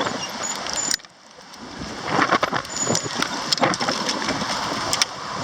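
Strong wind rushing and buffeting the microphone, with scattered clicks and rattles. The rush drops away abruptly about a second in, then builds back up to full strength.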